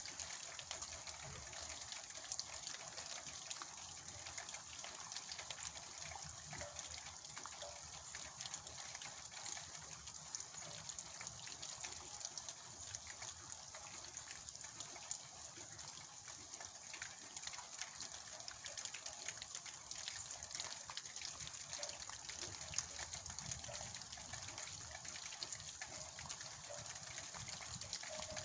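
Heavy rain falling steadily, a continuous hiss with many small drop ticks through it.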